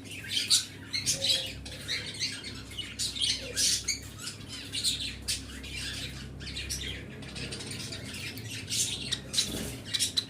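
A flock of small pet cage birds chattering: dense, overlapping short chirps and squawks, thinning briefly past the middle and picking up again near the end, over a steady low hum.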